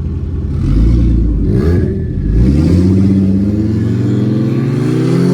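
Turbocharged car engine accelerating hard at full throttle. Its pitch dips about two seconds in, then climbs steadily through the rest.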